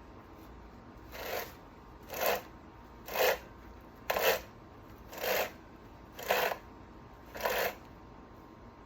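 Seven short sprays of Three-in-One oil, about one a second, each a brief hiss, applied along a chainsaw's chain and bar-tip sprocket.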